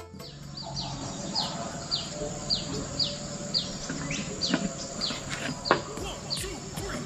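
A bird calling over and over, short downward-sliding chirps about two a second, over a steady outdoor hiss. A couple of sharp knocks come in the second half.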